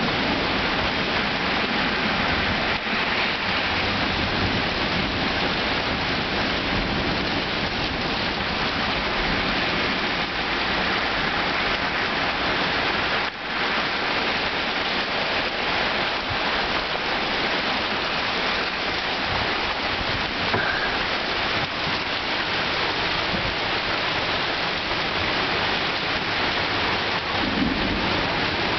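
Heavy thunderstorm rain pouring down steadily, a dense even hiss of falling water.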